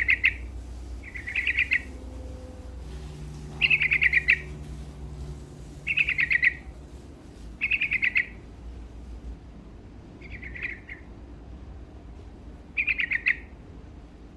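Yellow-vented bulbul (trucuk) singing in full voice: short phrases of rapid notes, repeated about every two seconds, seven times.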